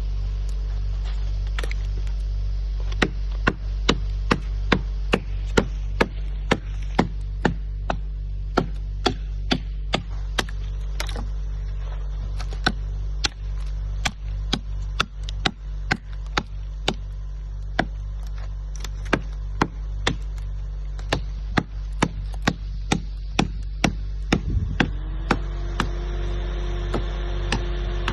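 An axe or hatchet chopping wood in a long run of sharp strokes, often about two a second with short pauses, over a steady low hum; a steady tone joins about three seconds before the end.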